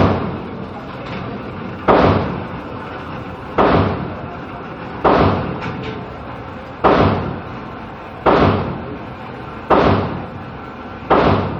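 Gunshots fired one at a time at a steady pace, eight in all, about one every second and a half, each with a short echoing tail.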